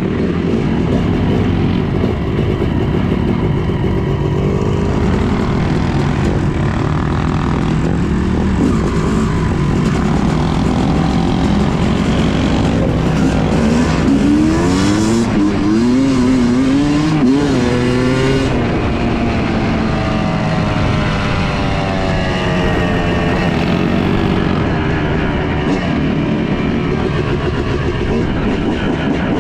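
Yamaha YZ250 two-stroke dirt bike engine running, its revs rising and falling again and again through the middle, steadier near the start and end.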